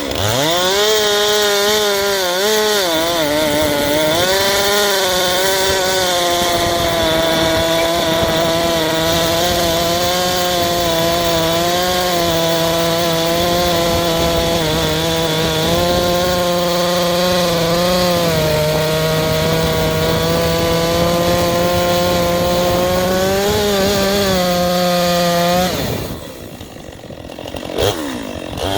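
Chainsaw running at full throttle through a cut in dry white oak, its engine pitch dipping several times as the chain bites, then dropping away about 26 seconds in as the cut ends.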